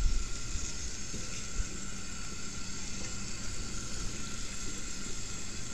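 Flour-coated chicken legs frying in grease in a cast iron skillet: a steady sizzle.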